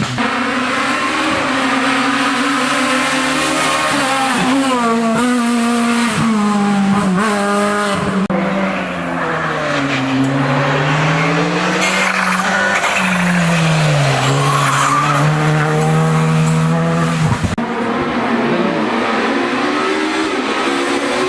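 Rally car engine driven hard on a special stage, its revs climbing and falling again and again through gear changes, lifts and corners.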